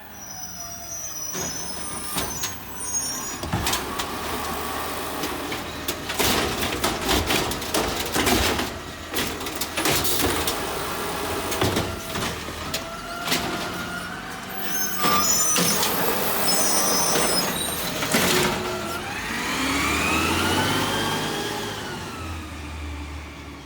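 Garbage truck at work: a long run of clanks and knocks with high metal squeals, then its engine revving up and back down near the end.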